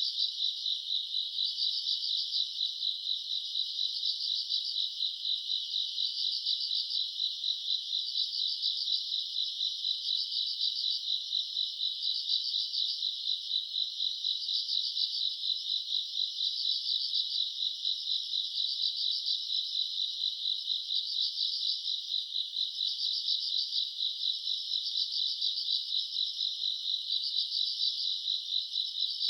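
A chorus of grass insects calling at night: a continuous shrill, fast-pulsing trill, with a fainter, higher chirping that swells and fades every second or two.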